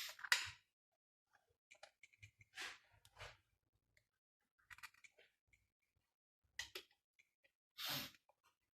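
Scattered light clicks and short scraping rustles of small engine parts and tools being handled, a few at a time, with pauses between them.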